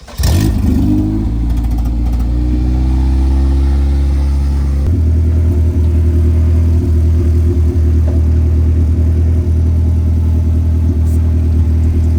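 Honda CRX race car's four-cylinder engine catching and running: the revs flare as it fires and settle over the first second or so, then about five seconds in the note shifts and it holds a steady warm-up idle.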